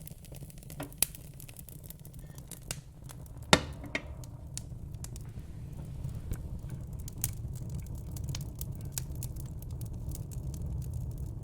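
Fire crackling: irregular sharp pops and snaps over a steady low rumble, with one louder pop about three and a half seconds in.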